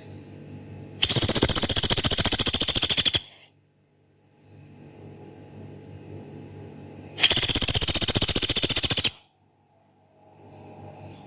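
Pelatuk beras woodpecker giving its long, rough rattle call twice: a very fast, even run of sharp notes lasting about two seconds each time, the first about a second in and the second about seven seconds in. Faint background noise lies between the rattles.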